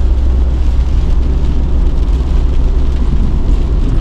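Steady low rumble of a car on the move, heard from inside: road and wind noise.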